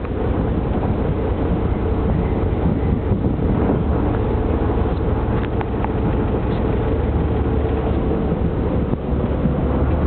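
Boat engine running steadily while under way, with wind buffeting the microphone.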